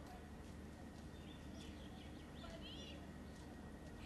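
Faint bird chirps, a quick run of short calls from about a second in, over a steady low background hum.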